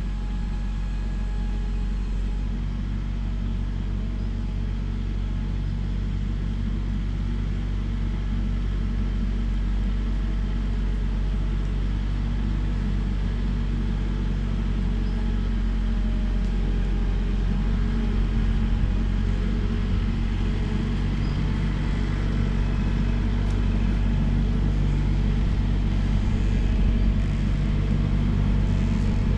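Steady engine and road drone of a vehicle being driven at an even pace.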